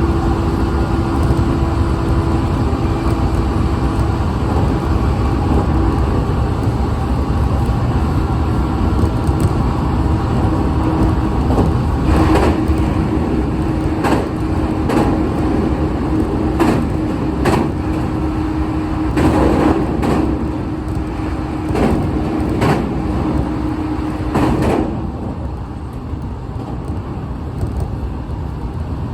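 Train running on the track with a steady rumble and hum. From about halfway through its wheels click over rail joints in pairs, a couple of seconds apart. Near the end it fades to a quieter, duller rumble.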